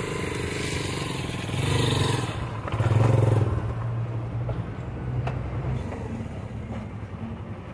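Honda XR150L's single-cylinder engine running as the motorcycle rides over a dirt-and-gravel curb, swelling louder twice under throttle about two and three seconds in, then growing quieter toward the end.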